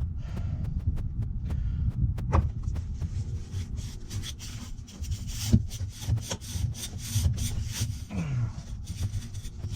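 A brush scrubbing back and forth over a clogged AC condenser coil, in uneven rubbing and scraping strokes with small clicks, knocking packed dirt off the fins.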